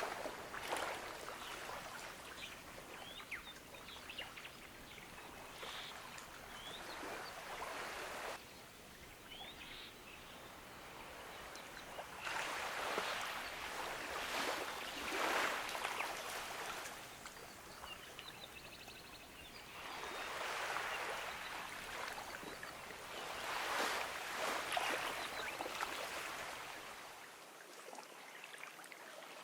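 Gentle ocean waves washing onto a beach, swelling and receding every few seconds, with short, faint bird chirps in the background.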